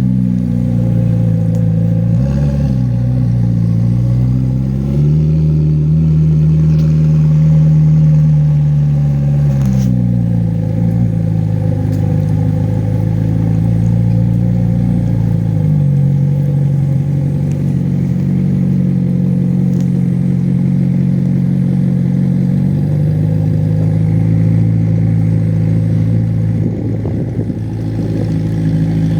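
McLaren sports car engine running at a fast idle through its exhaust, a steady low drone whose engine speed shifts up and down slightly a few times.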